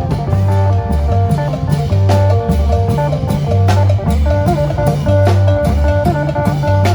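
Isan phin band music in a lively lam phloen groove: a quick plucked phin melody over a repeating bass line and a steady drum beat.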